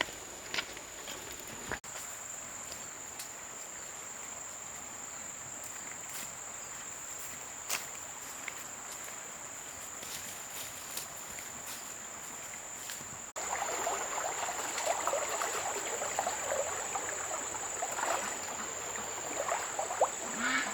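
Steady high-pitched insect chorus. From about 13 seconds in, a louder run of short irregular noises joins it.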